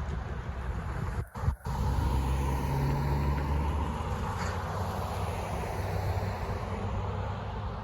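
A vehicle rumbling steadily past close by, with two brief dropouts in the sound about a second and a half in.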